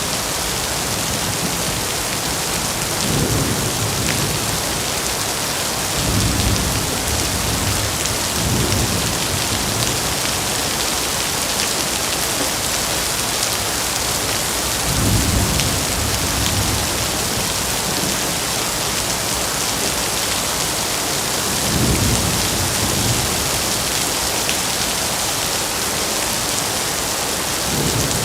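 Steady rain with low thunder rolling in about five times: swelling rumbles that come and fade every few seconds.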